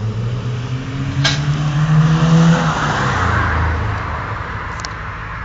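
Koenigsegg CCX's twin-supercharged V8 revving as the car pulls out at low speed. The engine note rises to its loudest about two seconds in, then eases off and falls in pitch. There is a sharp click a little over a second in.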